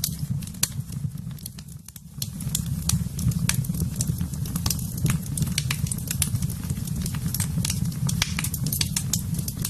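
Fireplace fire crackling: many sharp pops and snaps over a steady low rumble of the flames, which dips briefly about two seconds in.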